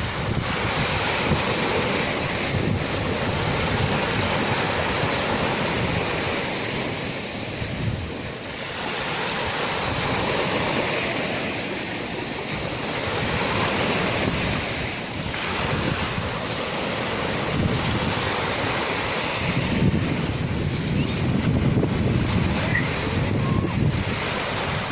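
Sea waves surging and washing in: a continuous rush of surf that swells and eases every few seconds.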